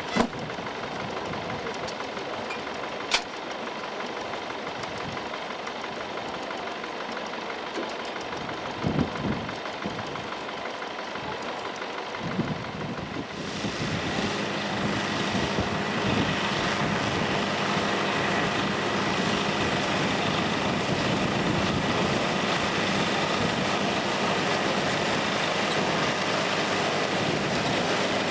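Engine of an old farm machine running steadily, with a sharp click about three seconds in. About halfway through the sound grows louder and brighter and stays so.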